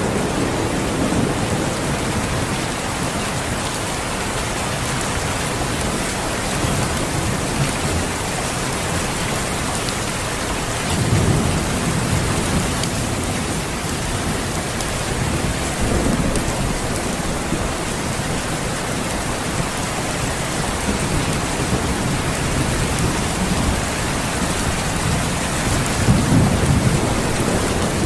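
Steady, dense rainfall with low rolls of thunder, the strongest swelling about 11 seconds in and again near the end.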